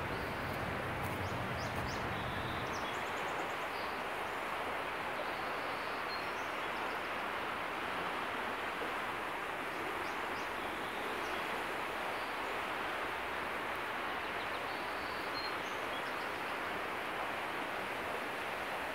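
Steady outdoor ambience: an even rushing noise throughout, with a low hum in the first few seconds and a few faint, short, high chirps scattered through it.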